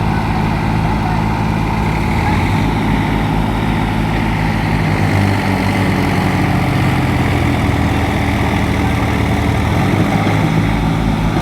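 Tractor diesel engines running steadily under the strain of a pull, their low note shifting a little a few seconds in.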